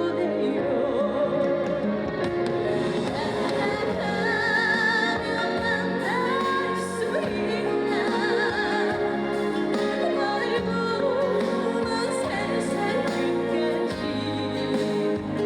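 A woman singing a slow trot ballad live with vibrato, over full musical accompaniment.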